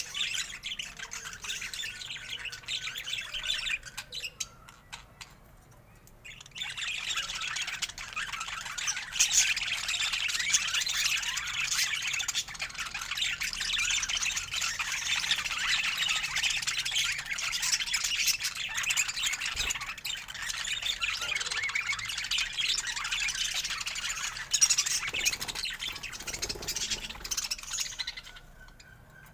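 Budgerigars chattering, a dense stream of short high chirps and squawks that eases off briefly about four seconds in, picks up again and stops near the end.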